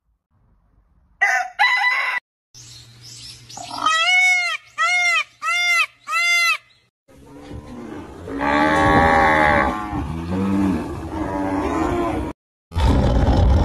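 A string of animal calls cut together: two quick calls, then four evenly spaced rising-and-falling calls, then a long drawn-out call. A loud rough sound starts near the end.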